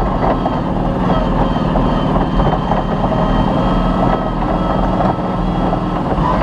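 Off-road rally vehicle's engine running hard at a fairly steady speed, with constant rattles and knocks from the vehicle over rough ground.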